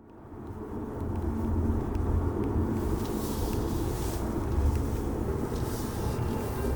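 Car driving, its steady low road and engine rumble heard from inside the cabin, fading in over the first second.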